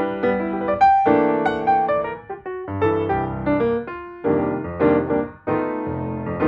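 Background piano music: a light melody of plucky, separate notes with chords underneath.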